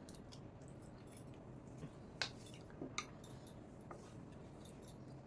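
Faint eating sounds of rice and chicken curry being taken from a plate, with a few light clicks and clinks about two to four seconds in.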